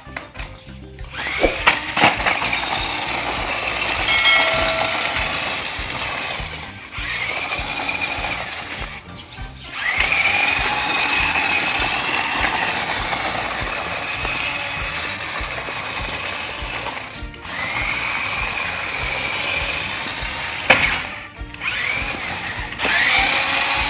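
Small electric motor whirring in repeated runs of a few seconds each, its whine rising in pitch as each run starts and stopping between runs.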